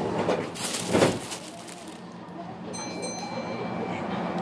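Running sound inside the carriage of a Kintetsu local commuter train between stations: steady rumble and rattle of the moving car, with a louder clack about a second in. About three seconds in comes a brief high ringing tone.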